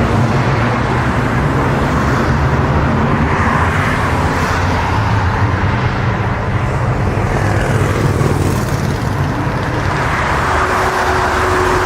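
Airliner's jet engines running during a landing: a loud, steady rumble with a noisy hiss over it.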